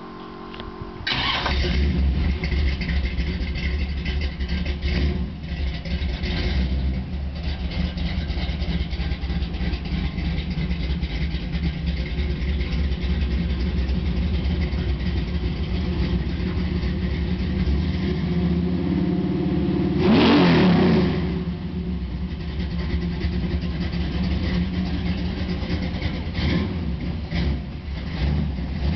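V8 engine in a 1985 Chevrolet S-10 drag truck starting about a second in, then idling with a deep, steady low rumble. About two-thirds of the way through it is revved once, the pitch rising and falling, before it settles back to idle.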